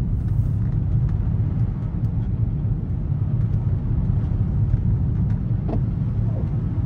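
Steady low rumble of a 2024 Volkswagen Atlas SUV driving on snowy roads, heard from inside the cabin: tyre and engine noise at an even speed, with a few faint ticks.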